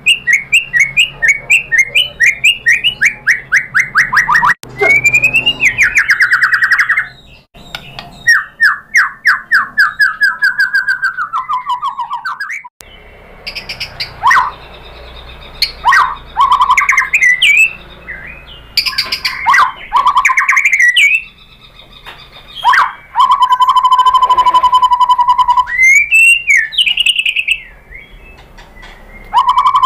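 White-rumped shama (murai batu) singing a loud, varied song. It opens with fast runs of repeated notes sliding down in pitch, then breaks into sharp whistles, trills and a held steady whistle, pausing briefly between phrases.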